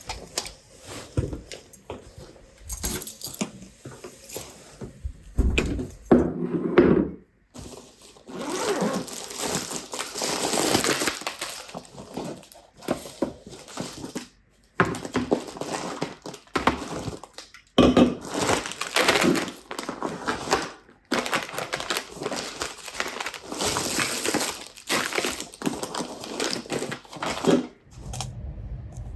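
Everyday household handling sounds: rustling and crinkling with scattered knocks and clinks. They stop dead and start again several times.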